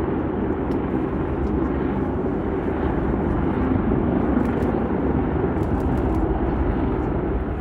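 Steady rumble and roar of a jet airliner's engines.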